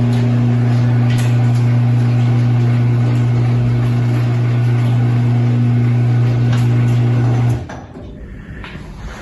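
A loud, steady low hum that holds one pitch and cuts off suddenly about seven and a half seconds in, leaving quieter background noise.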